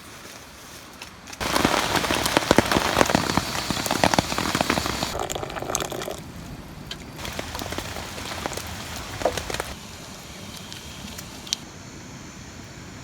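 Rain falling, a dense hiss of many small drop impacts. It comes in abruptly about a second and a half in, is loudest for the next few seconds, then carries on softer.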